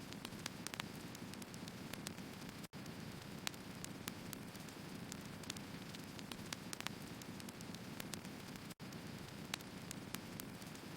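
Firewood burning: a steady low rush with frequent, irregular sharp crackles and pops. The sound cuts out for an instant twice.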